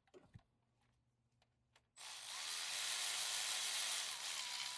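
A power tool runs with a loud, hissing whir for nearly three seconds, starting abruptly about two seconds in and cutting off sharply; before it there are only a few faint clicks.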